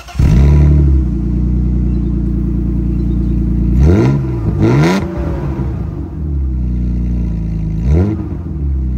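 Car engine running with the muffler and rear exhaust removed, loud and open-piped: idling, with three short revs about 4, 5 and 8 seconds in.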